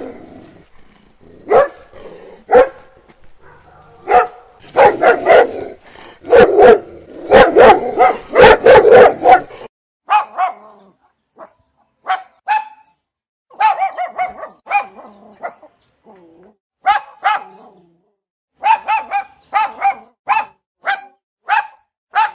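Dogs barking over and over: a dense run of deeper barks for about the first ten seconds, then it changes suddenly to sharper, higher-pitched short barks, often in quick pairs, with gaps between.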